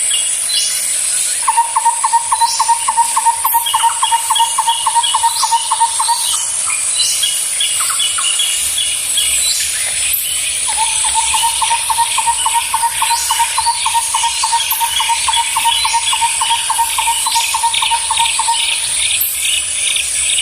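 Birds calling over a steady high-pitched insect drone. A rapid run of even, repeated notes, about five a second, goes on for several seconds, stops, and starts again for a longer run near the middle, with quicker high chirps in between.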